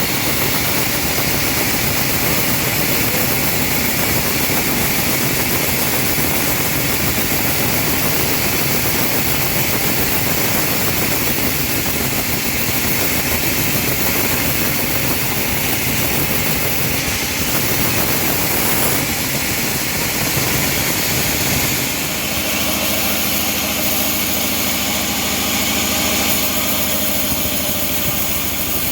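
Homemade engine-driven bandsaw mill running steadily while sawing a teak log, its engine and blade making a loud, dense noise. About three-quarters of the way through, the sound turns steadier and less rough.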